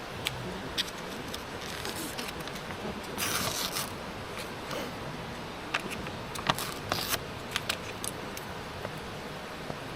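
Small hard objects being handled: a scattering of light clicks and clinks, with a brief rasping sound about three seconds in, over a steady background hiss.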